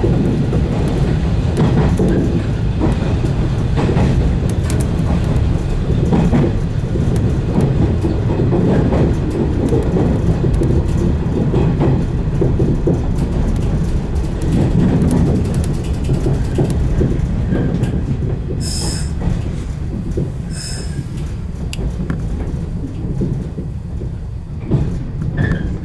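A 115 series electric train running along the track, with a steady low rumble of motors and wheels heard from inside the front car. Two brief high-pitched sounds come about 19 and 21 seconds in, and the noise eases a little near the end.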